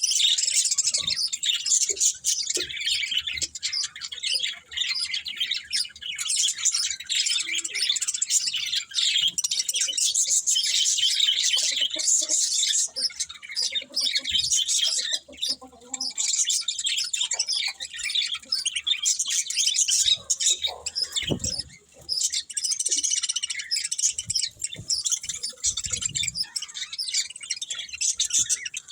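Budgerigars chattering and chirping continuously, a dense run of quick, high warbling notes from several birds at once, with a few soft low bumps now and then.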